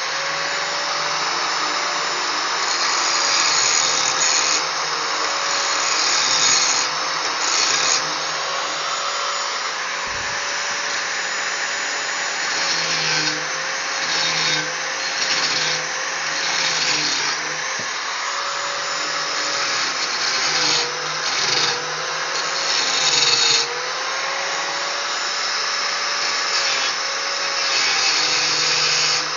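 Small electric angle grinder with a grinding disc grinding metal, running continuously. Its motor whine dips and recovers again and again as the disc is pressed into the work.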